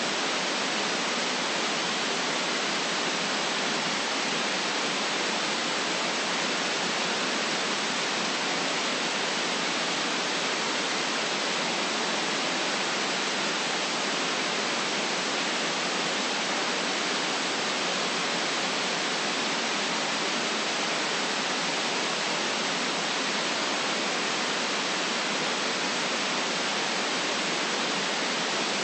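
Steady, unchanging synthetic white noise, an even hiss with little bass.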